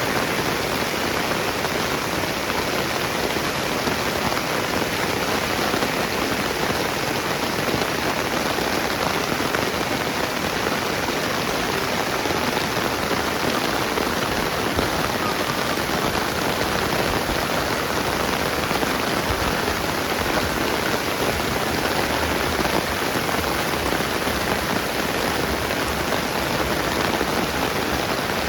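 Steady rain falling, an even hiss of drops on the ground and surfaces with no distinct events.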